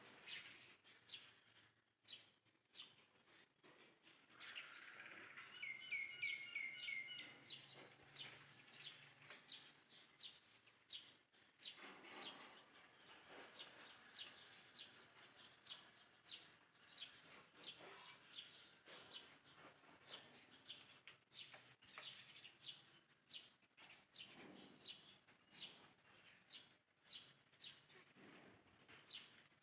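Faint, rapid high-pitched chirps repeating steadily, with a short quick run of linked notes about six seconds in.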